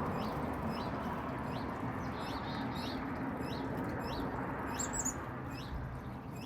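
A small songbird giving a steady series of short, high, downslurred chirps, about two a second, with a brighter, higher call about five seconds in, over steady low background noise.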